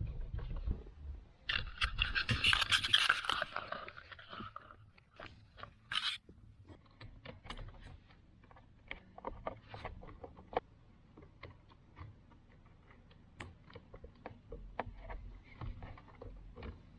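A scrape lasting a few seconds, a short sharp rasp, then scattered light clicks and taps of hand work.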